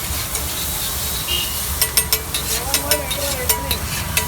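An egg dish sizzling in oil on a street-stall griddle, with many sharp clicks and taps from stirring on the hot plate. Faint voices can be heard in the background.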